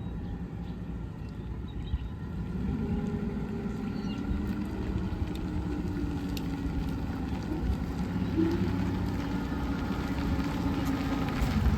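Forklift engine running as the forklift is driven over, growing louder about two and a half seconds in.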